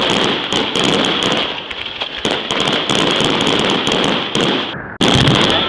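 Fireworks display: dense, continuous crackling and popping with overlapping bangs. The sound cuts out abruptly for an instant near the end.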